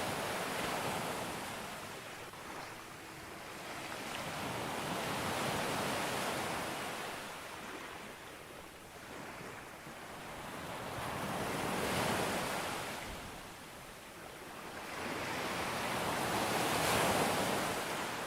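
Sea waves breaking on a beach. Each wave swells up and washes back, with a crest about every five to six seconds: four in all, the last the loudest.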